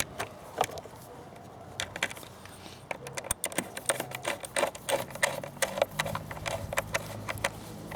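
Hand-work clicks and knocks of tools and parts, such as a socket wrench and the battery cover, being handled on the motorcycle. Scattered at first, then a quicker, irregular run of clicks from about three seconds in.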